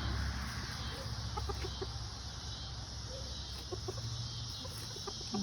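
Backyard chickens clucking: short, scattered soft calls over a steady low rumble.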